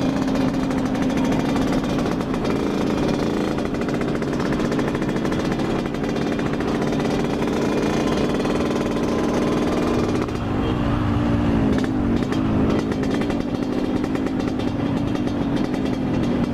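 Yamaha RX-King's single-cylinder two-stroke engine running steadily through a very loud exhaust, with the revs rising and falling briefly a little past halfway.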